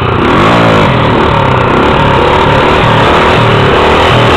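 Honda XR 250 Tornado's single-cylinder four-stroke motorcycle engine revving, its pitch rising in the first second, then running on with a steady throb.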